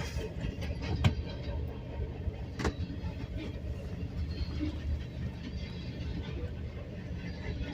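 A freight train's cars rolling past a grade crossing, heard from inside a car: a steady low rumble with two sharp clicks about a second in and again near three seconds.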